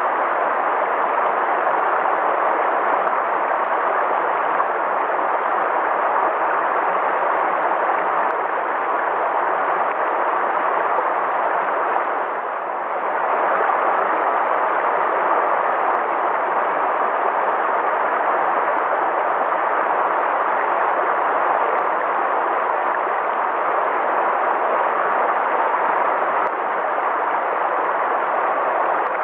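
River water flowing, a steady rushing that dips briefly about halfway through.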